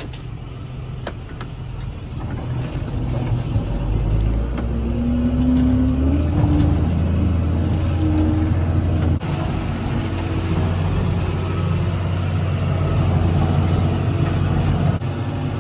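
Farm tractor engine running, heard from inside the cab, rising in revs about four to six seconds in.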